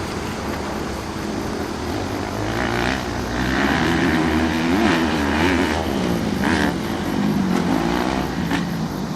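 Motocross dirt bike engine running, its pitch rising and falling as the throttle is worked.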